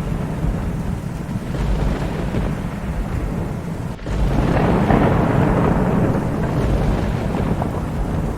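Thunder rumbling continuously over steady rain. About halfway through, the rumble briefly drops, then swells into a louder peal that slowly fades back.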